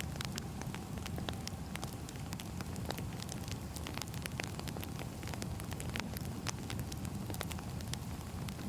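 Wood fire crackling: frequent irregular sharp pops and snaps over a steady low rumble of burning logs.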